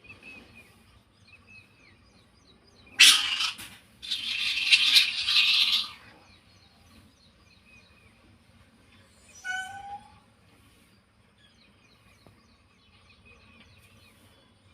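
Small birds chirping over and over, broken by two loud, harsh, noisy bursts about three and four seconds in, the second lasting about two seconds. A single short rising call comes about nine and a half seconds in.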